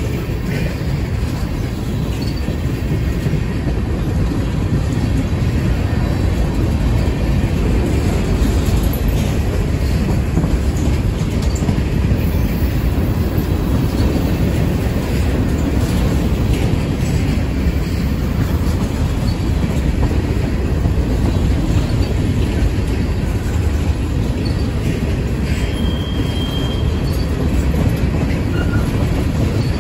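Freight train cars rolling past close by: a steady rumble of steel wheels on the rails, with a brief high wheel squeal near the end.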